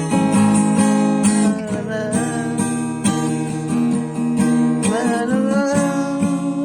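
Music played live on an instrument: chords struck in a steady rhythm with ringing notes, and a sliding pitch about two seconds in and again near five seconds.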